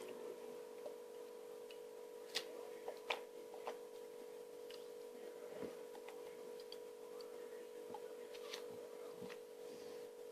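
A steady hum with a few faint, scattered clicks and taps.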